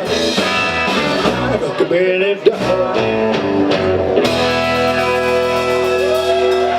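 Rockabilly band with electric guitar and drums playing live. About four seconds in the rhythm stops and the band holds a long final chord while a higher line slides over it.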